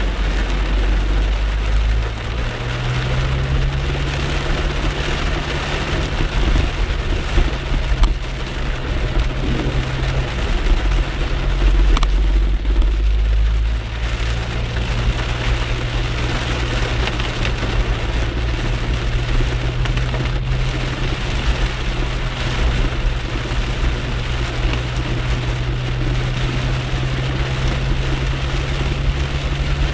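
Heavy rain drumming on a car's windscreen and roof, heard from inside the moving car, over the steady low hum of its engine and tyres on the wet road.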